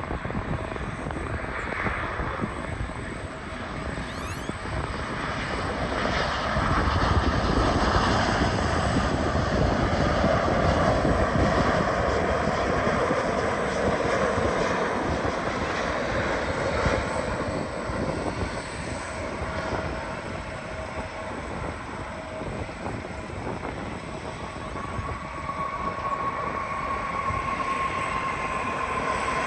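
Jet airliner passing on landing approach: its engine roar builds, holds for several seconds, then fades away. Near the end a steady whine comes in.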